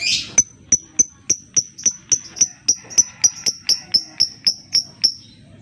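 Lovebird calling: one harsh burst, then a long run of sharp, high ticking chirps at about three to four a second, slowly quickening and stopping about five seconds in.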